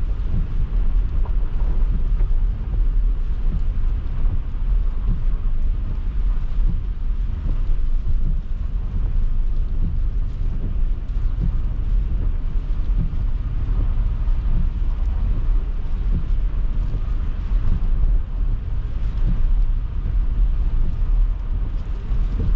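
Car driving on snow-covered streets: a steady low rumble of road, tyre and engine noise with small irregular bumps and knocks.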